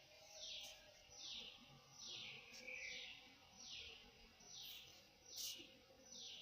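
A bird calling over and over, each call a short high note sliding downward, repeated about once a second.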